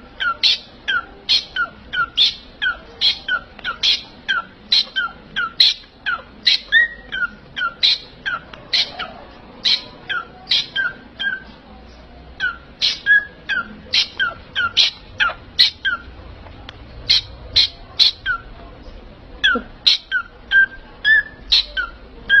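A parrot giving short, sharp, high calls over and over, about one or two a second, with a couple of brief pauses.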